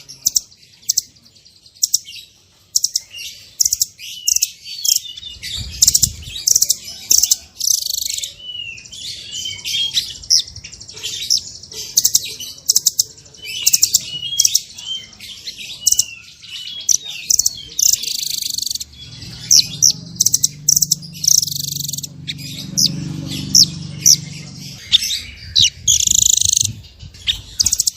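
Small songbirds singing a dense, rapid stream of high chirps, sharp clipped notes and quick rising and falling trills, the kind of small-bird song used as 'masteran' to teach caged songbirds new phrases. A low hum sits underneath for several seconds past the middle.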